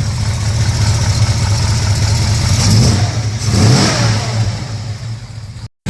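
Chevrolet 396 big-block V8 in a 1968 El Camino idling with a choppy, lopey idle after its ignition timing has been re-set at the distributor. The engine note rises and falls briefly twice near the middle, and the sound cuts off abruptly just before the end.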